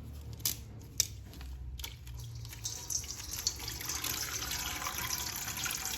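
Water running from a tap into a sink, a steady splashing hiss that builds from a couple of seconds in. It is preceded by a few light clicks or knocks.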